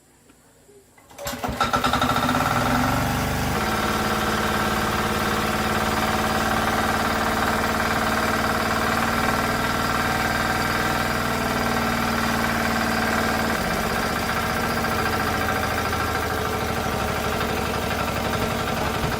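A small gasoline tractor engine starts about a second in, runs at a higher speed for a couple of seconds, then settles into a steady run.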